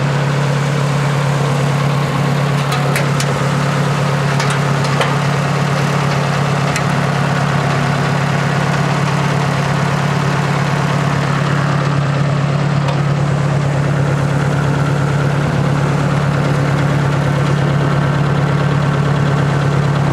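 Ford 600 tractor's four-cylinder gasoline engine idling steadily, with a few light clicks in the first several seconds.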